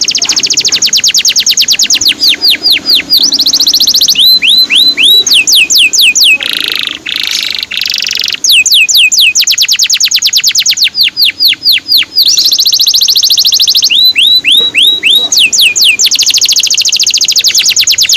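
Male canary singing a long song: fast trills of rapidly repeated high notes alternate with phrases of falling 'cuit' whistles, with a harsher buzzy passage about seven seconds in.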